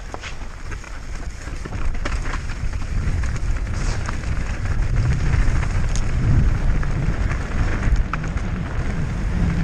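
Mountain bike descending fast on a rough course: wind rumbling on the on-board camera microphone with tyre noise and scattered rattles and knocks from the bike. The rumble gets louder about two seconds in as speed builds.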